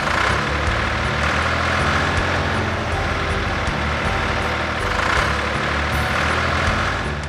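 Heavy machine engine sound effect for a trencher, running steadily with a low rumble and faint regular ticking.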